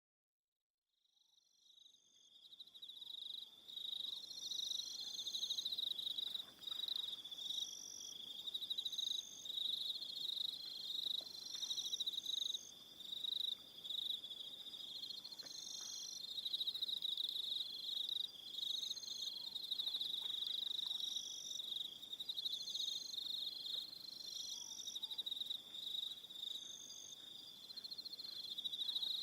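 A chorus of crickets chirping continuously, many pulsed trills overlapping at a steady high pitch, with shorter, higher trills coming and going. It fades in from silence over the first two or three seconds.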